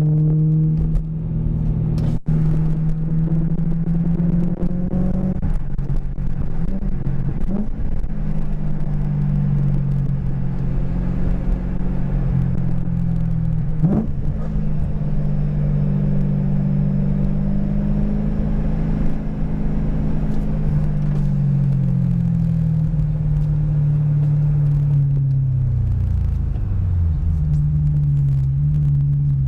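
Car engine and tyre noise heard from inside the cabin while cruising, a steady low drone. Its pitch drifts slowly, then falls as the car slows near the end.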